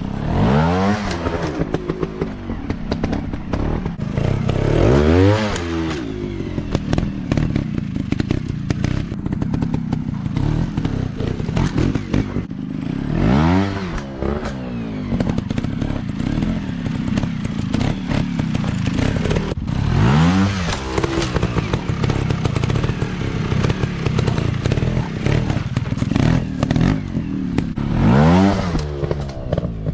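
Off-road dirt bike engines running under load over rough trail, revving up and dropping back about five times, with frequent short knocks and clicks.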